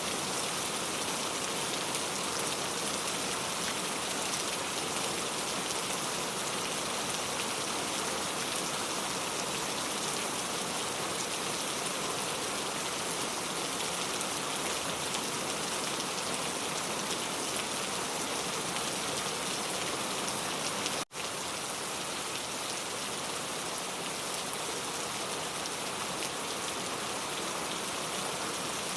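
Steady rain falling, a dense even patter of drops on surfaces. About two-thirds of the way through, the sound cuts out for a split second and comes straight back.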